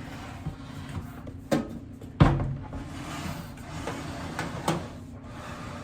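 Clicks and knocks from handling a new countertop microwave, with one loud thud about two seconds in, over a steady low hum.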